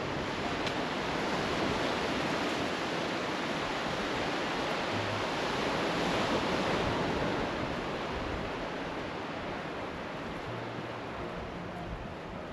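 Sea surf washing onto the beach, a steady rush that swells about halfway through and eases off after.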